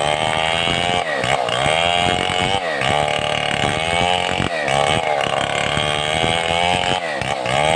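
Stihl 070 two-stroke chainsaw running at high revs, ripping a mahogany log into boards. Its pitch dips and recovers every second or two as the chain works through the wood.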